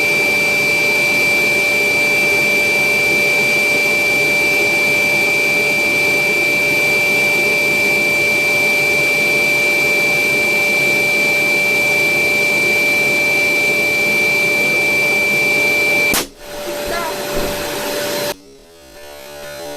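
Electric blower inflating a giant balloon, running steadily with a high whine, then cutting off abruptly about sixteen seconds in.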